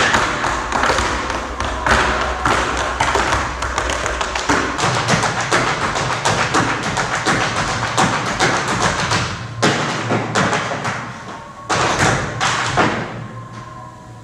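Tap shoes striking the stage floor in fast, dense rhythms over percussion music. The sound thins out and fades away near the end.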